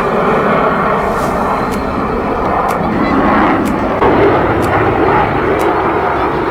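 Fixed-wing aircraft engine noise at an airshow: a loud, steady rushing sound with no clear pitch. Faint sharp ticks come through it about once a second.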